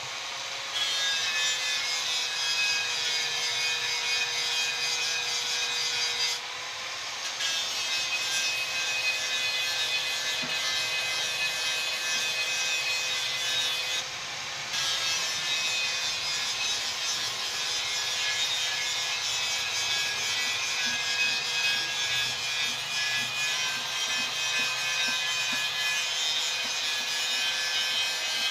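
Electric power tool running steadily with a high whine while abrading metal. It eases off briefly twice, about six seconds in and again about fourteen seconds in.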